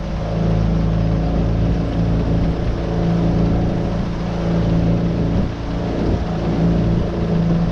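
Tohatsu 9.8 four-stroke outboard motor running steadily under way, with water noise from the hull. There is a brief dip in level about five and a half seconds in.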